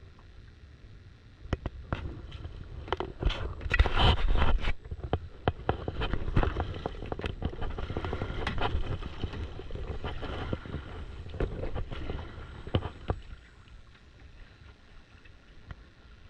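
Kayak paddling on a lake: water splashing and sloshing, with sharp knocks of the paddle against the kayak. It is loudest about four seconds in and dies down after about thirteen seconds.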